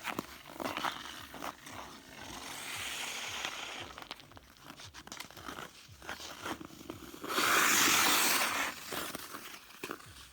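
Ice skate blades scraping on pond ice, with scattered short knocks of a hockey stick on the ice. A loud scrape lasting over a second comes about seven seconds in.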